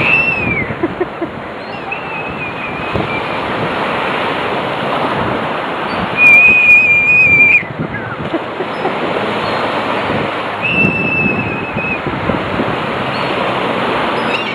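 Surf washing steadily on the beach, broken by several loud, high-pitched held squeals. The longest and loudest, about a second and a half, comes about six seconds in.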